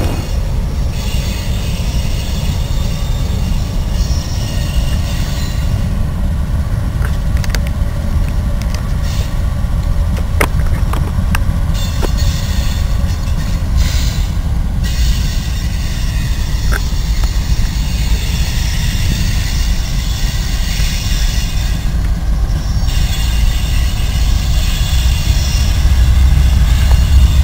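Freight train rolling by with a steady low rumble and a high wheel squeal. A few sharp clicks come from the rail cars about a third of the way through.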